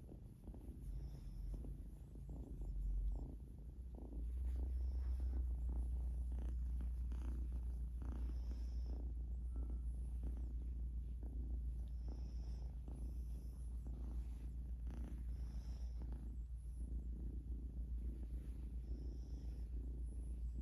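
Domestic cat purring steadily, a low fluttering rumble that becomes much louder about four seconds in.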